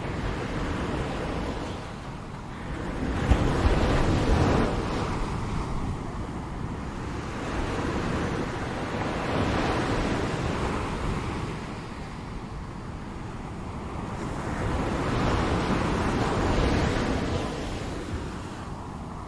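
Ocean waves breaking and washing on a shore, in slow surges that swell and ebb every five to six seconds.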